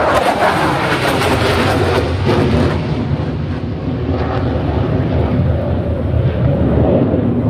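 Jet aircraft passing overhead in a flypast: a loud, steady rumble of jet engine noise.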